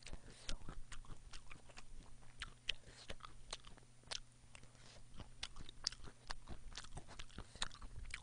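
A person chewing and biting food close to a microphone: many small, irregular wet clicks and smacks of the mouth.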